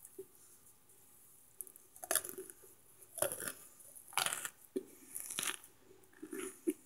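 Close-up chewing of microwaved cornstarch chunks: a slow, dry crunch about once a second, beginning about two seconds in.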